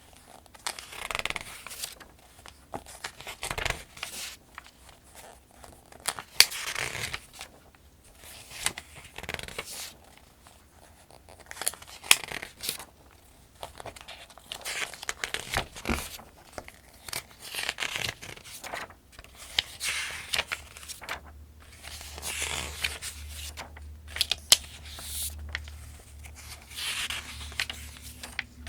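Pages of a Farmers' Almanac being turned one after another, each turn a crinkling paper swish with a sharp snap, about every two to three seconds. A low steady hum comes in about two-thirds of the way through.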